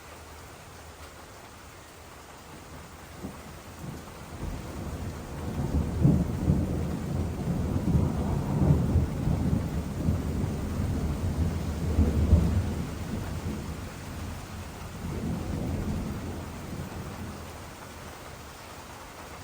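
Long rolling thunder rumble that builds from about four seconds in, swells several times, is loudest about twelve seconds in, and fades away near the end, over a steady background hiss.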